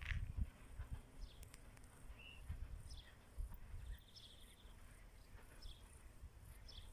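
Quiet rural outdoor ambience: scattered short bird chirps over a low, irregular rumble that is strongest in the first half second.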